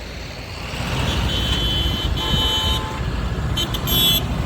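Vehicle horns tooting three times in short, high-pitched blasts over a steady low rumble of engines.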